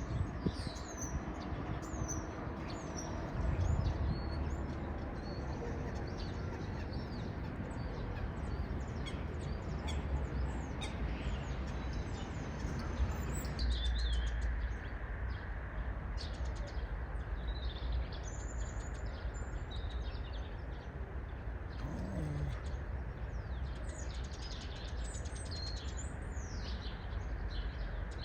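Several small birds chirping and twittering in short, varied calls, over a steady low rumble.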